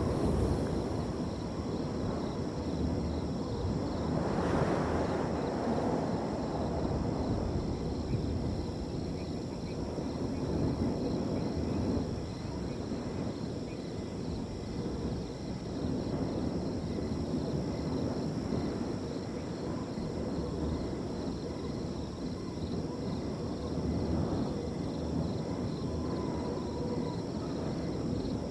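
Wind blowing across an open field in slow gusts, one stronger gust swelling about four seconds in, with crickets trilling steadily and high-pitched behind it.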